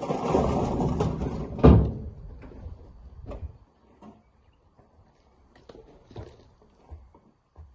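Rocks tumbling and clattering for about three and a half seconds, with one heavy thud near the two-second mark. Scattered small knocks of stone on stone follow.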